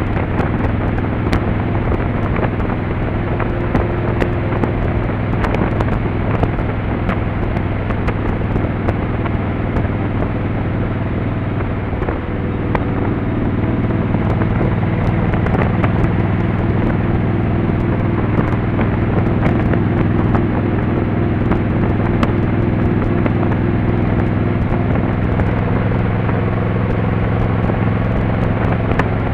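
Motorcycle engine running steadily at cruising speed, heard from the bike itself. The level dips briefly about twelve seconds in, and the engine note shifts after it.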